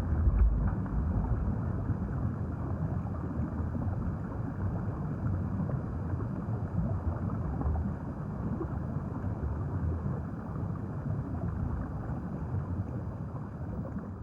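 River water flowing: a steady low rushing with no distinct events, easing slightly toward the end.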